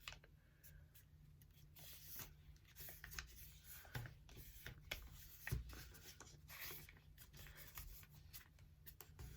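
A sheet of paper being folded and creased by hand: faint rustling and crinkling with scattered small crackles, a couple of them sharper about four and five and a half seconds in.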